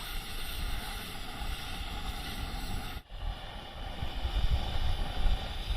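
Wind buffeting the microphone, giving an uneven rumble over a steady hiss, with a brief drop-out about three seconds in.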